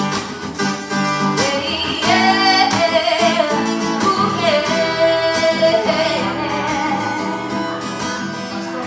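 Live acoustic guitar playing, with a woman singing long, wavering held notes over it from about two seconds in.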